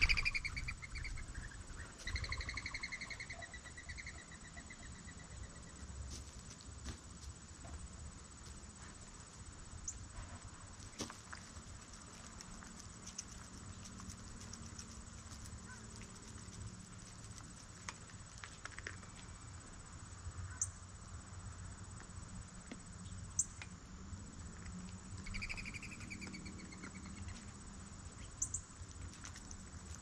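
Outdoor ambience with a songbird calling: a rapid trill of chirps a couple of seconds in and again about twenty-five seconds in, over a faint steady high tone, with a few sharp clicks scattered through.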